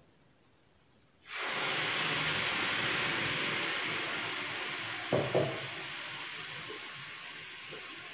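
Ground tomato puree hitting hot coconut oil in a frying pan, sizzling loudly from about a second in and slowly dying down. A brief metal knock or two about five seconds in.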